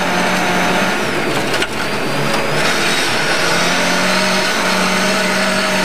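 Lada 1200's 1.2-litre four-cylinder engine running hard under load, heard inside the rally car's cabin, steady apart from a brief dip about a second and a half in.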